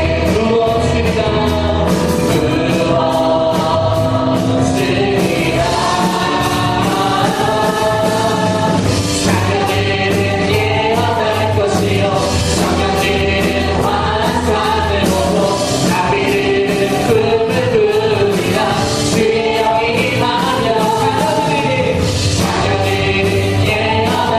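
A praise team singing a worship song together over band accompaniment with a steady beat.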